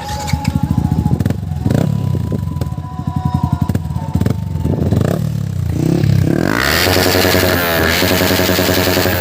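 Motorcycle exhaust being revved in short, rapid blips. About six and a half seconds in, background music with a distorted guitar takes over.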